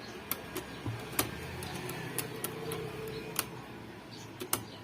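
Scattered light clicks and taps of small parts being handled on a set-top box receiver board, with a faint low hum through the middle.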